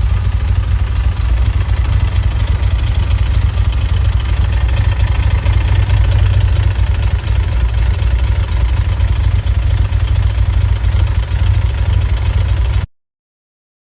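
Ferrari Dino 246 GTS's 2.4-litre V6 idling steadily after a cold start, with a strong low rumble. The sound cuts off suddenly near the end.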